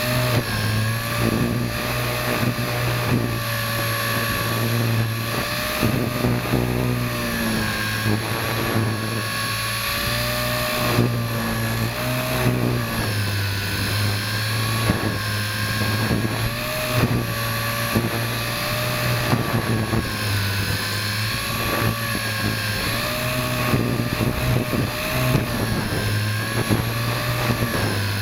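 WLtoys V120D02S mini RC helicopter's electric motor and rotor whining in flight, the pitch wavering up and down as the rotor speed keeps changing, with gusts buffeting the microphone.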